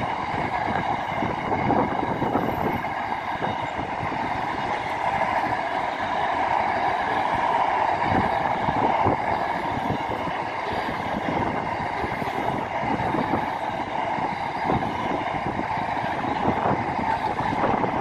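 Double-stack container freight train's wagons rolling past: a steady rumble of wheels on rail with a continuous humming ring, broken by frequent irregular clacks of wheels over rail joints.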